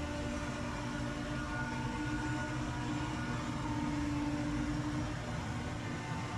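A power-equipment engine running steadily at constant speed: a continuous drone with a steady pitch.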